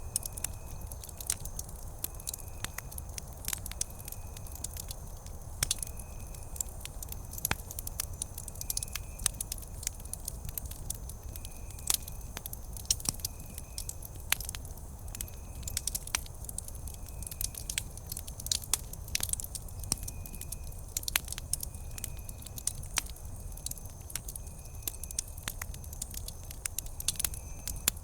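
Wood campfire crackling and popping steadily, with many sharp snaps over a low rumble of burning. A faint chirp-like tone pulses about once a second, with a steady faint high tone.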